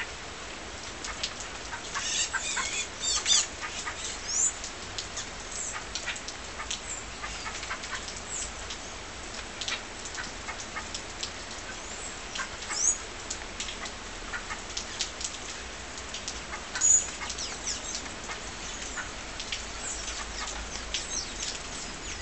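Many small birds chirping and twittering in short, quick calls at irregular intervals, over a steady background hiss.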